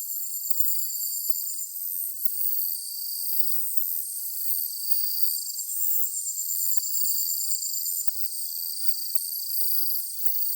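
A chorus of chirping insects: several high-pitched trills of rapid pulses overlap, each starting and stopping every few seconds.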